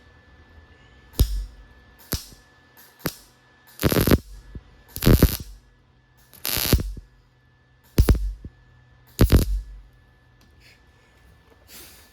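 MIG welder fired in short bursts, about nine tack pulses of under a second each with crackling arc noise, on thin sheet metal that is burning through even with the welder turned down.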